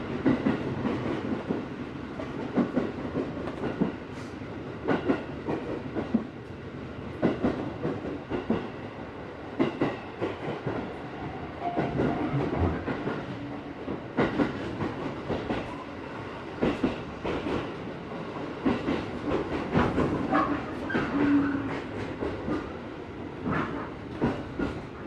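Running sound of an electric commuter train heard from inside the passenger car: a steady rumble with the wheels clicking and knocking irregularly over rail joints and pointwork as it runs in toward a station stop. A brief humming tone comes about twenty seconds in.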